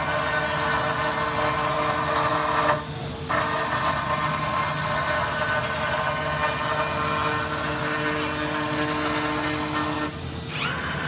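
CNC machine running a cut: a steady machining noise with a faint hum of steady tones. It briefly drops away about three seconds in and again near the end.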